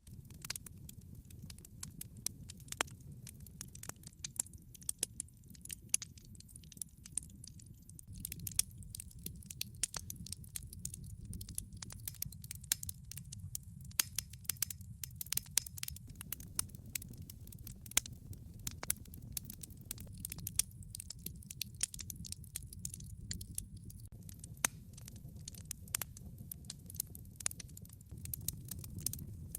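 Wood log fire crackling, with frequent sharp irregular pops and snaps over a steady low rumble of burning.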